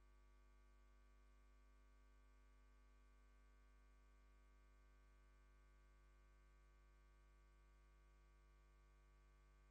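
Near silence with a faint, steady electrical hum that does not change.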